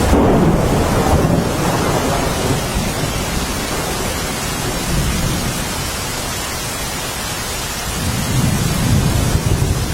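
Steady rain falling, with low rolling thunder rumbling under it. The rumble swells about a second in and again near the end.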